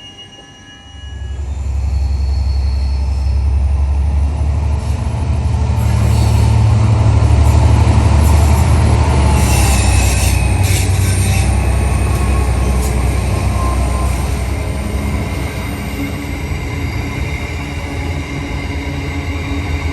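Electric passenger train running on the track. A loud low rumble starts about a second in, is strongest around the middle, and goes on steadily, with wheel squeal and clicks partway through.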